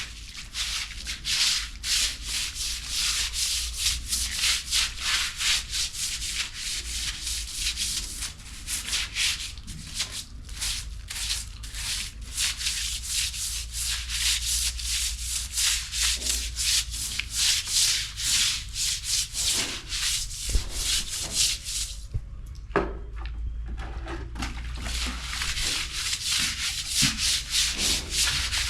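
Rapid, continuous scraping and rubbing strokes on a rough surface, many per second. They pause for about two seconds about 22 seconds in, with a few soft knocks, then carry on.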